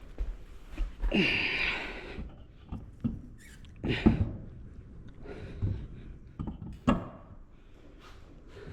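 Irregular knocks and clunks from work in a small shop, with a few short squeaky sounds, the loudest about a second in and about four seconds in.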